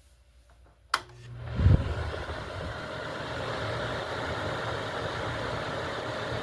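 A switch clicks about a second in, and the 1989 Toastmaster 20-inch box fan starts: its motor hums and the blades spin up within about a second, with a low thump, into a steady rush of air.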